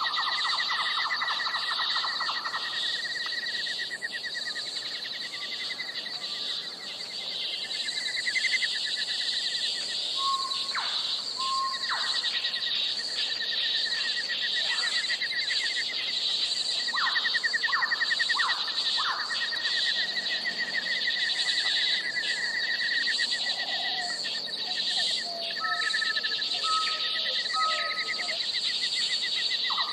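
Natural outdoor soundscape: insects trill steadily and without a break, with short bird chirps and whistled notes scattered through it, including a run of three brief notes near the end.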